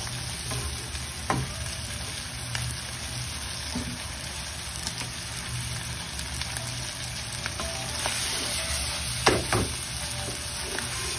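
Shrimp, squid and other seafood sizzling in butter in a frying pan while a wooden spatula stirs and scrapes them, with scattered taps of the spatula on the pan and one louder knock about nine seconds in.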